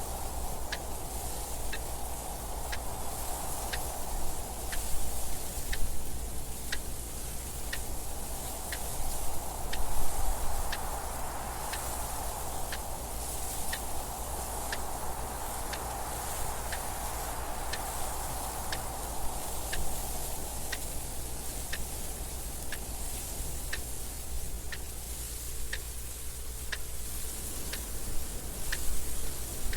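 Clock ticking steadily, about one tick a second, over wind that rises and falls in slow gusts.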